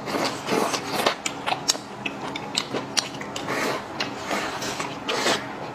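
Eating sounds: chewing and mouth smacks with many sharp, irregular clicks.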